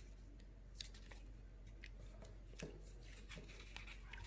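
A sheet of origami paper being folded and creased by hand: faint, scattered paper crinkles and crisp little snaps as the folds are pressed down.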